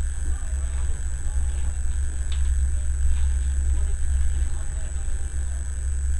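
Passenger train running, heard from inside the carriage: a steady deep rumble with a thin, steady high-pitched whine over it, and a single click a little over two seconds in.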